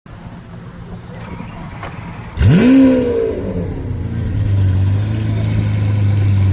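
Lamborghini Aventador's 6.5-litre V12 cold start: after a couple of faint clicks, the engine fires about two and a half seconds in with a loud rev flare that climbs sharply and falls back. It then settles into a steady cold idle.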